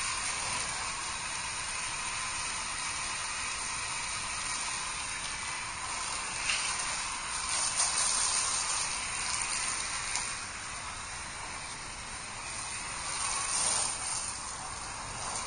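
Garden-hose water spraying through a foam-gun nozzle set to plain water onto a car's bodywork: a steady hiss of spray that grows louder for a few seconds near the middle.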